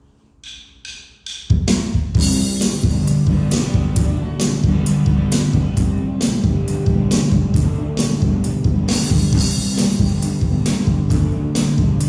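A church worship band starts a song: a few sharp clicks of a count-in, then drum kit, bass and guitar come in together about one and a half seconds in, playing on with a steady beat and regular cymbal hits.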